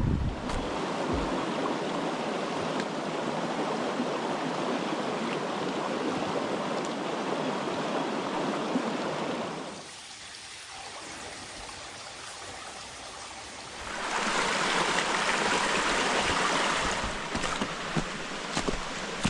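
Brook water running in a steady rush. It drops quieter about ten seconds in and comes back louder about four seconds later.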